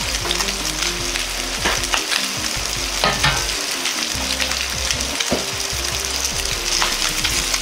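Chicken skin frying in a frying pan, sizzling steadily with scattered crackles and pops as the chicken fat renders out and spatters.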